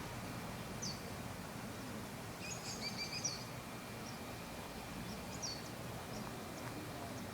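Birds chirping outdoors: a few short, high chirps scattered through, with a brief flurry of chirping about three seconds in, over a steady low background hiss.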